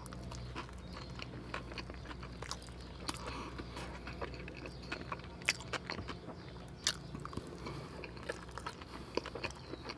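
Close-up mouth sounds of a person eating a chili cheese hot dog: biting and wet, open-mouthed chewing with many short, irregular smacks and clicks.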